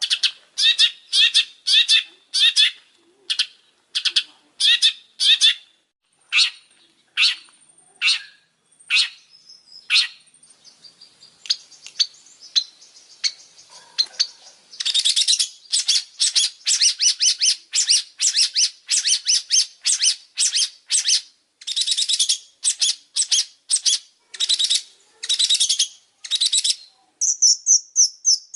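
Long-tailed shrike singing: a long series of short chattering notes, a couple a second at first, coming faster and denser about halfway through, then switching near the end to a quick, higher-pitched run of notes.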